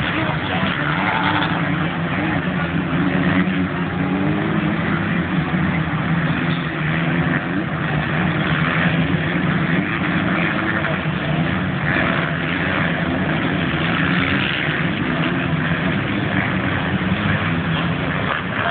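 Several motocross bike engines running hard together, their pitches rising and falling and overlapping as the riders work the throttle around the track.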